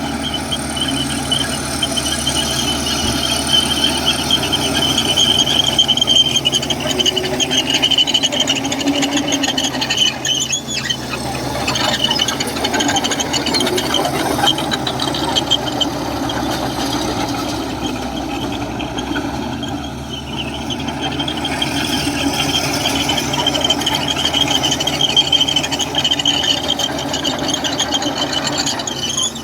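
Komatsu crawler bulldozer working, its diesel engine running under a steady drone while its steel tracks squeal in long, high, wavering tones that ease off briefly twice.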